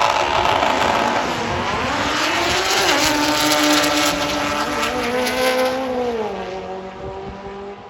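A drag racing motorcycle's engine at full throttle down the strip, its pitch climbing and then dropping sharply twice, about three and six seconds in, as it shifts up a gear. It grows steadily fainter as the bike pulls away.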